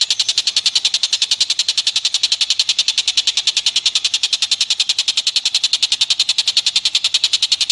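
An animal call from a bird-call training recording: a rapid, even chatter of high-pitched pulses, about a dozen a second, held without a break.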